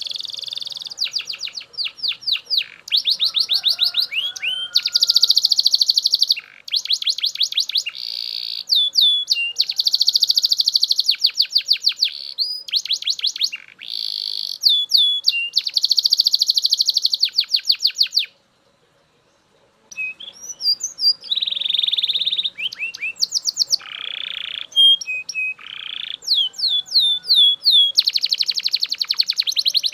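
Male Belgian canary singing loudly: long rolls of rapid trills and fast repeated sweeping notes, with one pause of about a second and a half a little past halfway.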